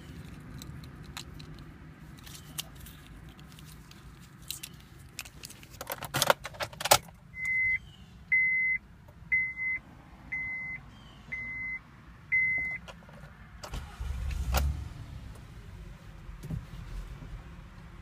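A Honda key jangling and clicking into the ignition. Then the dashboard chime beeps six times at an even pace. About fourteen seconds in, the 2007 Honda Odyssey's V6 starts with a short low rumble and settles to a quiet idle.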